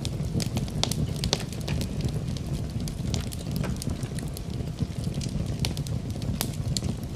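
Wood fire burning in a fireplace: a steady low roar of the flames with irregular sharp crackles and pops throughout.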